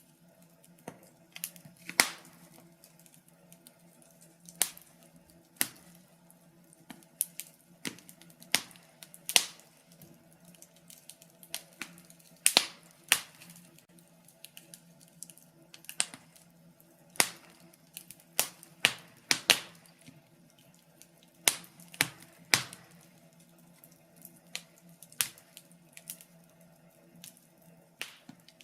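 Wood fire crackling in a fireplace: irregular sharp pops and snaps from the burning logs, some much louder than others.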